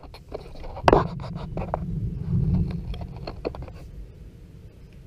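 Low rumble of distant thunder from an approaching thunderstorm, swelling and fading over a couple of seconds. A series of sharp clicks and knocks from handling the microphone, the loudest about a second in.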